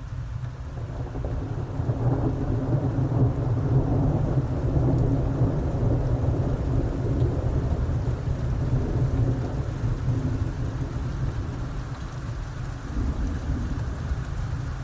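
Wind buffeting the microphone: a steady low rumble that swells about two seconds in.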